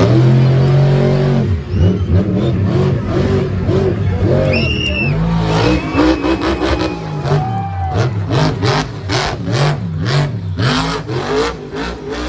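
Monster truck engine revving hard over and over, its pitch rising and falling with each blip of the throttle. A string of short sharp cracks comes in the second half.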